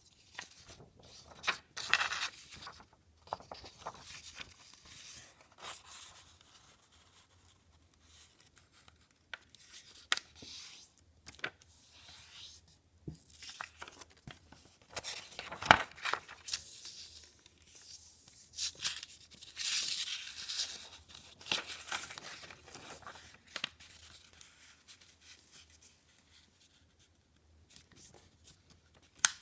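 A sheet of paper being handled and folded into a paper airplane: irregular crinkling and rustling, with one sharp snap about halfway through.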